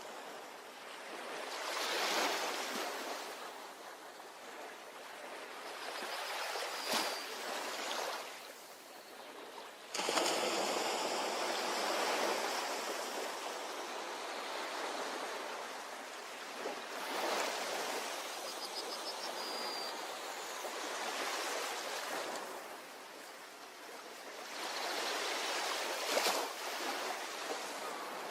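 Ocean waves washing onto a beach and drawing back, swelling and fading every few seconds. There is a sudden jump in loudness about ten seconds in.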